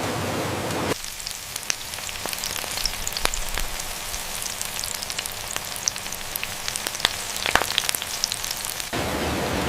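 Hot oil sizzling and crackling with many sharp pops, as food deep-fries. A steady rushing noise fills the first second and returns near the end.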